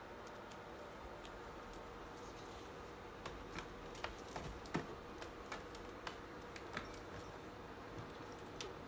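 Irregular light clicks and ticks over a steady hiss, starting about a third of the way in, with one louder click near the middle.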